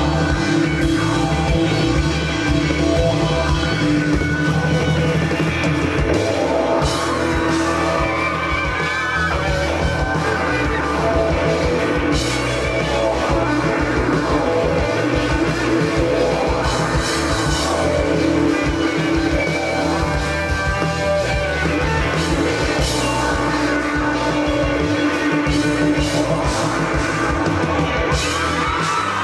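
Rock band playing live through a PA system: electric guitar with bending notes over bass guitar and a drum kit, at a steady, loud level.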